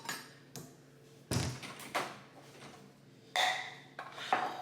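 Kitchen items being handled and set down: a series of knocks and thuds, the heaviest about a second in, and a short ringing clink about three and a half seconds in.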